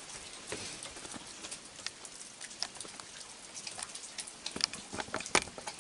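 Rain falling steadily, a soft patter with scattered sharp drips and ticks.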